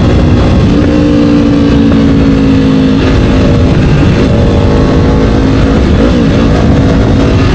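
Kawasaki Ninja 500's parallel-twin engine through an Akrapovic slip-on exhaust, running at a steady pace while the bike is ridden. The engine pitch dips and rises briefly about six seconds in.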